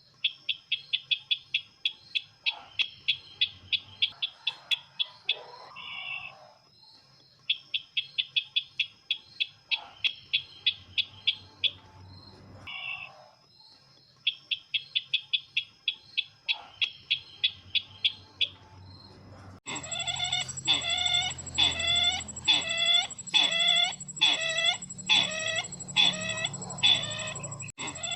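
Bird-luring recording of the 'sisintar ladang' call: bursts of fast, high chirps about two seconds long with pauses between them. About 20 seconds in, it cuts to slower, fuller repeated calls over a steady high whine.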